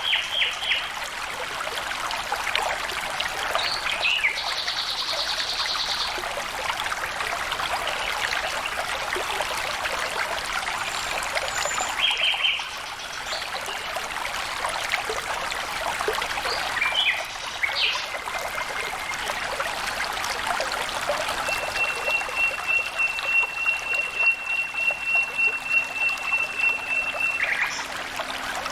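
Stream water trickling and flowing steadily. Birds call now and then over it, including one long even trill in the latter half.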